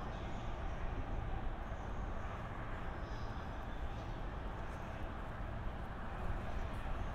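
Steady low rumble of a slow-moving train: an EF81 electric locomotive hauling a delivery of E131 series cars.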